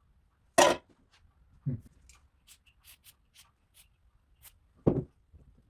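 Knocks and clicks of tools working the rusted metal parts of an antique Singer sewing machine: one sharp knock, two duller thumps, and light clicks between them.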